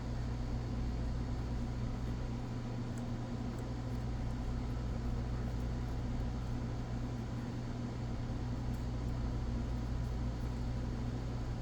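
A steady low mechanical hum at an even level, with a few faint light ticks over it.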